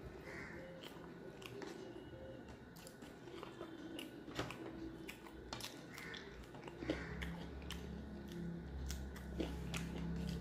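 Close-miked chewing and biting, with wet mouth clicks and smacks, as rice and fish curry are eaten by hand. A low hum comes in about seven seconds in.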